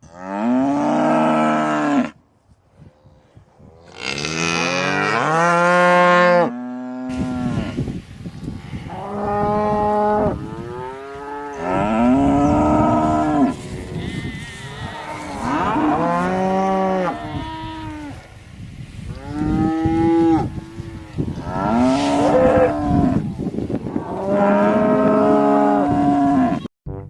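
Cows mooing: about eight long, drawn-out moos with short pauses between them, the later ones over a steady background hiss.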